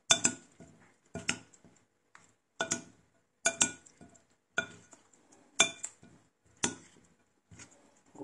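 A utensil clinking against the side of a bowl while a macaroni salad is stirred and mixed: about seven sharp strikes, roughly one a second, each leaving a short ring.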